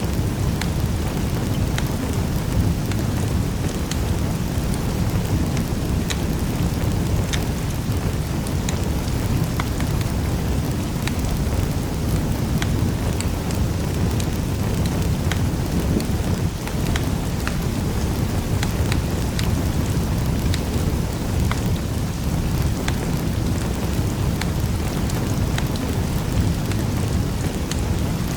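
Wood fire burning in a fireplace: a steady low rumble of the flames with frequent small sharp crackles and pops scattered irregularly throughout.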